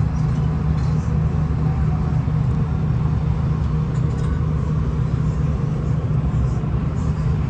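Steady rumble and low drone inside a V/Line VLocity diesel railcar as it runs along the track, with no breaks or changes.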